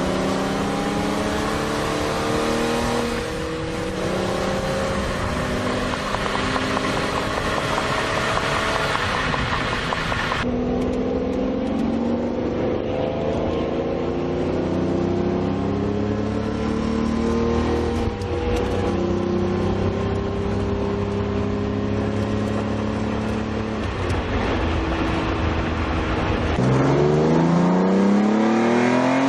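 Lamborghini Diablo V12 engine pulling under load, its note climbing slowly in long runs across several spliced takes. Near the end it revs up fast in a sharp rising sweep.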